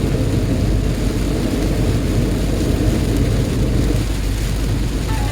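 Steady low rumble of a car driving slowly in traffic, heard from inside the car.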